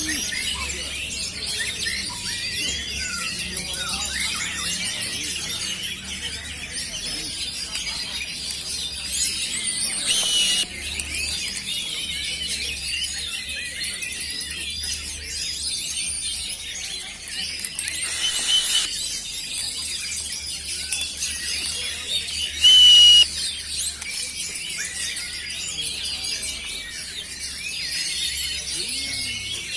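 Many caged oriental magpie-robins singing at once: a dense, continuous chorus of overlapping high chirps, whistles and trills. About 23 seconds in, a short, loud, steady high tone stands out above the chorus.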